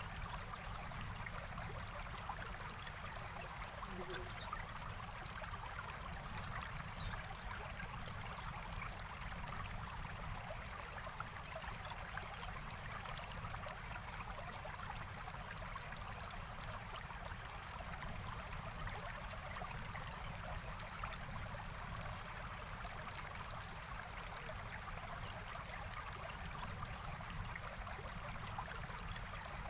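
Forest stream flowing steadily, a continuous rush of running water, with a few faint, short bird chirps high above it, one falling about two seconds in.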